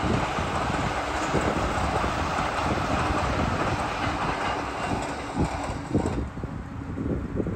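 E657-series limited express electric train running past on the rails and moving away. Its noise drops off sharply about six seconds in, leaving wind noise.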